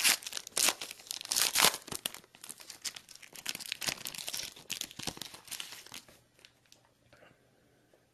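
Packaging wrapper crinkling and tearing in irregular bursts of crackle as trading cards are unwrapped, dying away about six seconds in.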